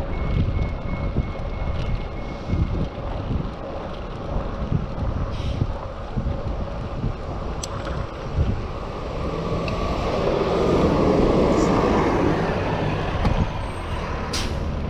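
Wind buffeting an action camera's microphone on a moving bicycle. A motor vehicle passes about two-thirds of the way in, its noise swelling and then fading.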